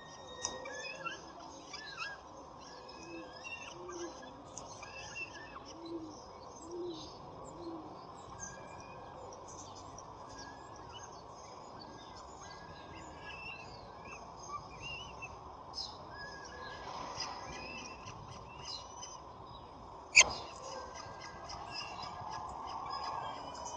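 Small birds chirping and whistling around a nest site, with a low call repeated about once a second for a few seconds early on. A single sharp knock comes about 20 seconds in, the loudest sound.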